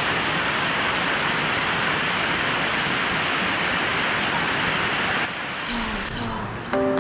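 Steady rush of falling water from a waterfall, cutting off about five seconds in, after which music comes in near the end.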